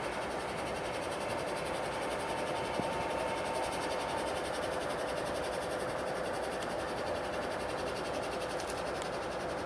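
A train on the move: a steady rolling rush of noise, with a faint high whine that fades out about four seconds in.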